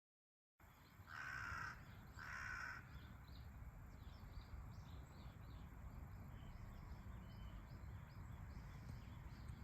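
A bird gives two calls about a second in, each lasting about half a second and the loudest thing here. A run of short, quick high chirps follows, over a steady low rumble.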